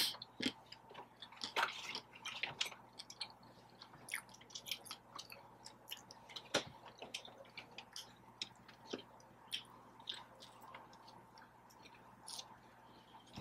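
Close-miked chewing: soft, irregularly spaced mouth clicks and smacks of someone eating, with a few sharper ones now and then.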